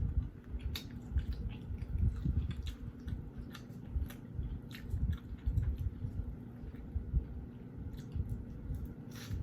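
Close-miked chewing and biting of fried chicken, with irregular wet squishes and small crisp crackles between low mouth thuds.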